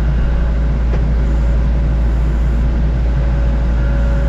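Kubota compact tractor's diesel engine running steadily, a loud, even low drone.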